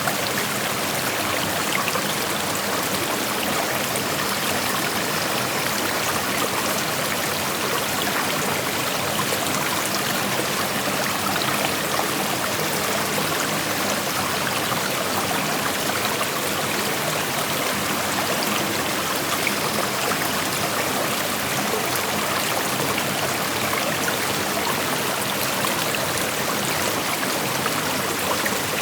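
Shallow creek flowing over rocks: a steady rushing of water with small trickles and splashes running through it.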